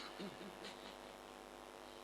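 Quiet pause in a Qur'an recitation: a steady hum from the sound system, with a few faint, short voice sounds in the first second.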